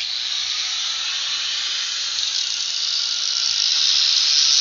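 Arc welding: a steady, loud hissing crackle that starts abruptly and grows a little louder.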